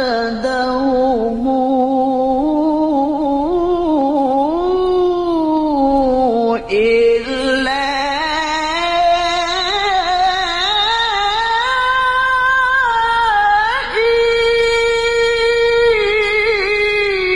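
A male Quran reciter's voice in the melodic mujawwad tilawah style, drawing out long ornamented notes with wavering turns, then leaping to a high held note about 14 seconds in.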